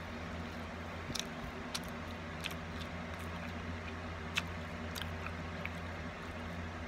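Mouth sounds of eating: a few sharp wet clicks and lip smacks while chewing, the sharpest about four seconds in, over a steady low hum.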